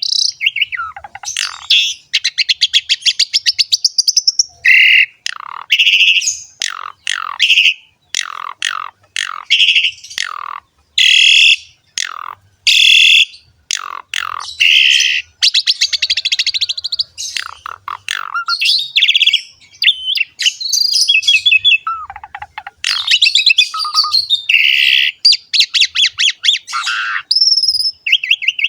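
Asian pied starling (jalak suren) singing continuously: a fast, varied string of whistles, buzzy rattling trills and falling notes, with short pauses between phrases.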